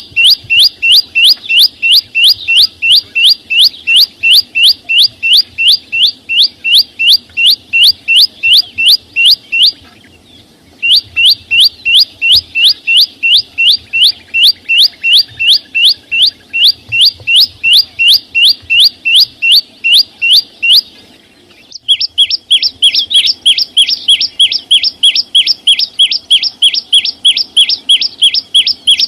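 Song of the chim sâu xanh: a fast, even series of short, sharp rising chirps, about four a second, in three long runs with brief pauses about ten and twenty-one seconds in.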